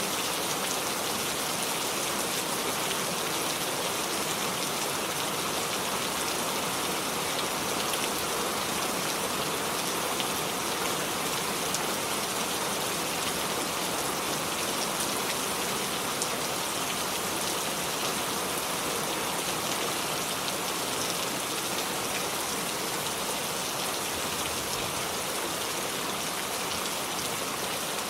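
Steady rain falling, a dense, even hiss of many drops pattering on surfaces.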